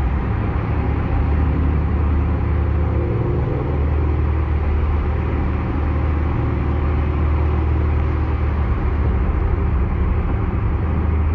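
C6 Corvette's V8 running at a steady cruise along with tyre and road noise: an even, low drone that holds level with no revving.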